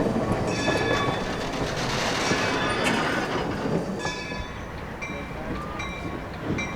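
Railroad cars rolling past on the track with a steady rumble, with short high squeaks from the wheels. The sound drops and thins about four seconds in.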